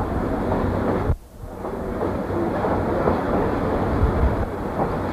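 Passenger train rolling along the track, heard from aboard a railroad car: a steady rumble of wheels and car body. The sound drops out suddenly for a moment about a second in, then comes back.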